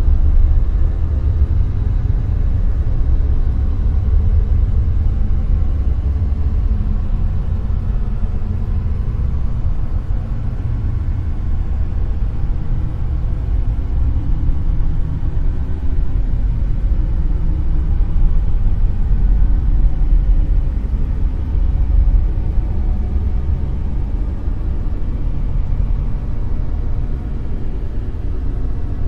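Dark noise: a steady, deep rumbling hiss that is heaviest in the bass, swelling and easing slightly in loudness.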